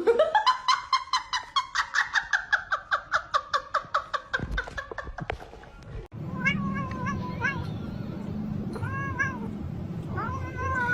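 A cat making a rapid run of short repeated calls, about seven a second, for some five seconds. After a break, a cat meows three times over a steady low hum.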